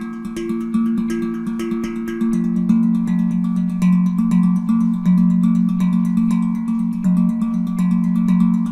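HanDrum, a handpan-type steel hand drum tuned to F Phrygian at 432 Hz, played in a quick, even rhythm of strikes whose notes ring on and overlap. Low notes carry most of the sound, and the low note changes about two seconds in.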